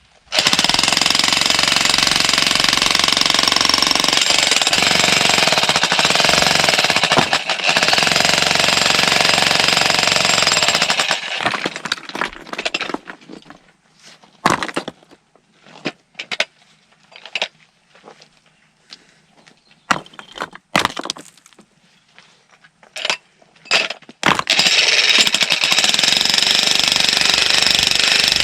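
Jackhammer breaking stone: it hammers continuously for about the first eleven seconds, then stops for a stretch with only scattered knocks and clatter, and starts hammering again near the end.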